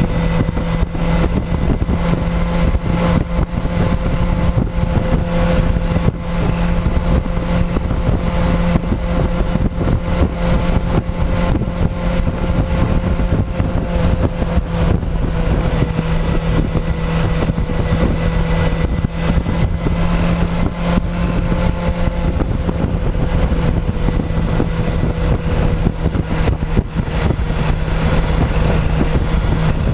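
Motorcycle engine running at a steady road speed, its pitch drifting slightly up and down, under a constant rush of wind and road noise.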